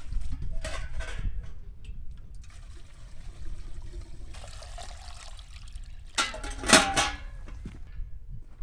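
Water pouring and splashing in uneven spurts, with one louder gush about six seconds in.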